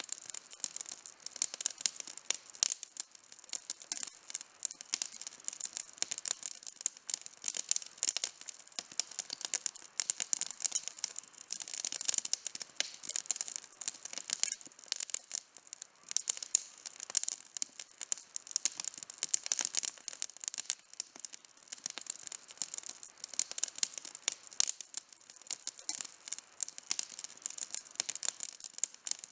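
Campfire wood burning with dense, irregular crackling and small pops.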